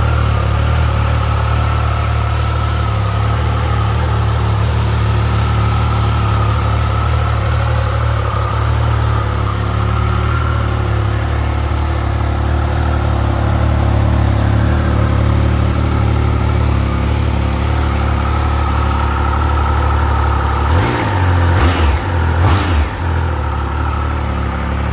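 2021 Triumph Speed Triple RS's three-cylinder engine idling steadily. Near the end the throttle is blipped three times in quick succession.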